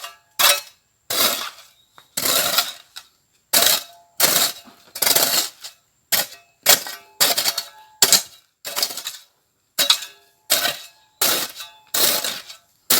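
A metal digging tool striking and scraping dry, stony ground in a steady series of blows, each with a short metallic ring, about one or two a second.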